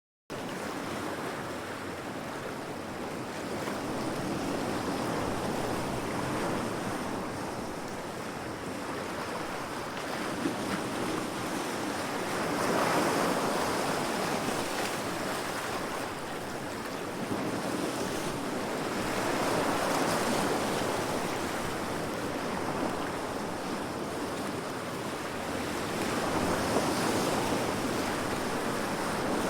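Heavy sea waves crashing against rocks: a continuous wash of surf that swells and falls back every seven seconds or so. It cuts in abruptly out of silence right at the start.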